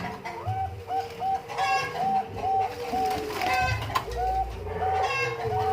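Perkutut Bangkok zebra dove cooing: a long run of short, quick coo notes at one pitch, repeated evenly.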